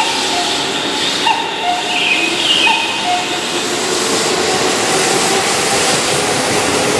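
Keihan Railway commuter train set 2632 running, a steady dense rolling noise with short high squealing tones that come and go between about one and three seconds in.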